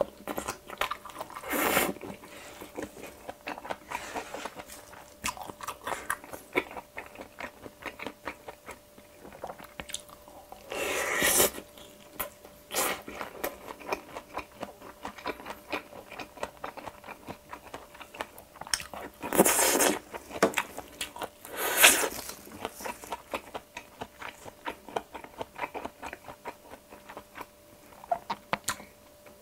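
Close-miked chewing of mouthfuls of bibimbap: a steady run of small wet mouth clicks, with a few louder, longer bursts of eating noise scattered through.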